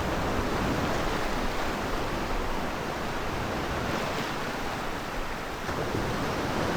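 Steady wash of sea surf on a beach, mixed with wind on the microphone.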